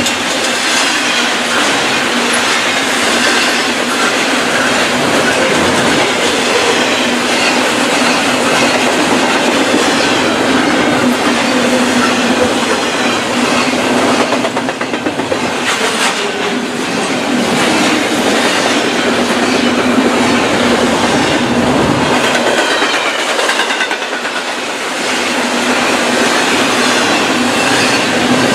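Loud, steady running noise of a BNSF double-stack intermodal freight train's well cars passing: steel wheels rolling and rattling on the rails.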